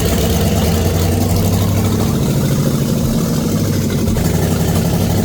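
A 1967 Camaro's rebuilt V8 running steadily just after catching on its first start in almost 20 years.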